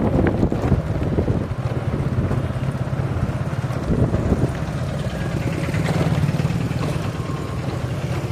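Motorcycle engine running steadily, heard from on the bike while riding, with road noise.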